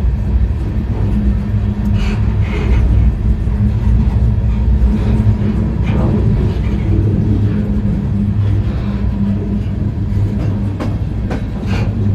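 Freight train rolling along, heard from on board the car: a steady heavy rumble of wheels on the rails, with a few brief metallic clanks scattered through.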